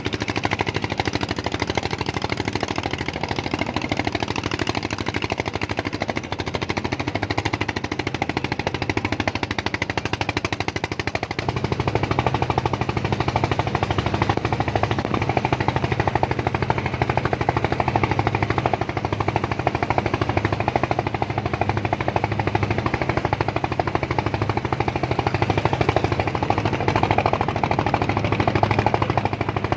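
Small engine running with a rapid, steady chugging that grows louder about eleven seconds in.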